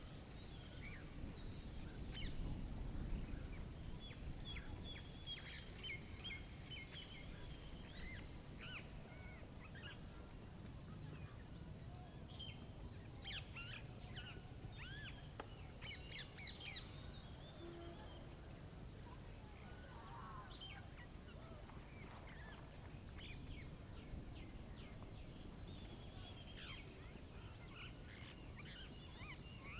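Several small birds chirping and trilling, calls overlapping throughout, over a low background rumble that swells briefly about two to three seconds in.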